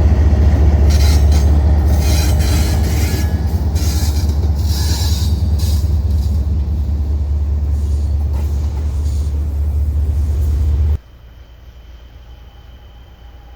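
A train passing close by: a heavy low rumble with bursts of high-pitched wheel squeal in the first few seconds. The sound cuts off abruptly about eleven seconds in, leaving faint background noise.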